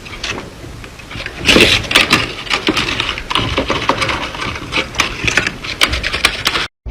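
Paper crinkling and clicking in quick, irregular crackles as a paper craft is handled. It cuts off abruptly near the end.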